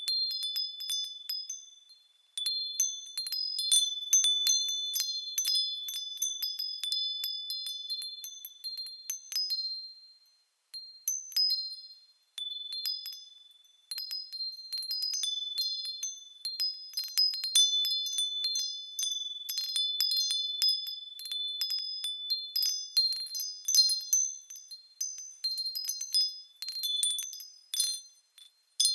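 Small high-pitched bells ringing as they are moved, with many irregular tinkling strikes whose tones overlap and ring on. The ringing dies away briefly a few times, around 2, 10 and 12 seconds in.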